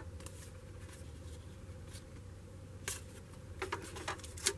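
Cardboard trading cards being flipped through by hand: a few short, soft card slides and clicks scattered through, over a faint steady low hum.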